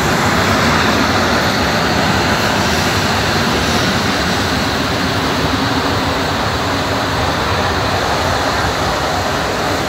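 Passenger train coaches rolling slowly alongside the platform, a loud steady running noise of wheels and running gear.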